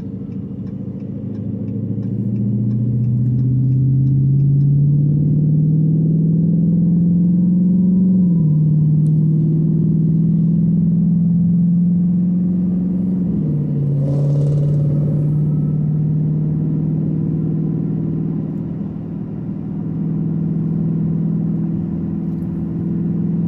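A car engine accelerating hard through the gears: its pitch climbs, drops sharply with an upshift about eight seconds in, climbs again, drops with another upshift about five seconds later, then holds steady at cruising speed.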